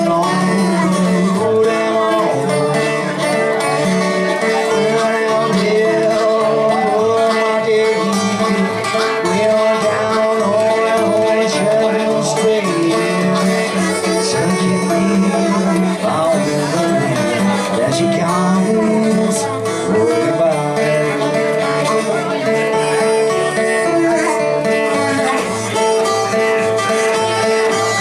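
Live acoustic blues playing an instrumental break: a harmonica holding and bending notes over rhythmic plucked-string accompaniment.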